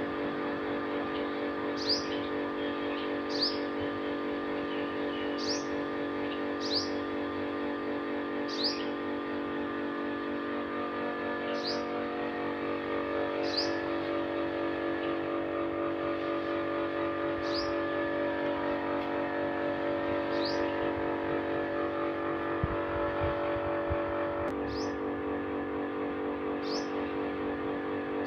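A bird repeats a single short, sharp, high chirp about every one to four seconds, roughly ten times. A loud, steady, engine-like drone runs underneath and shifts slightly near the end.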